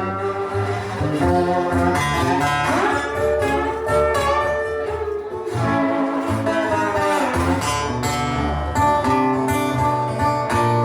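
Band playing a slow blues instrumental break: a lead guitar solo with bent, gliding notes over a steady bass line.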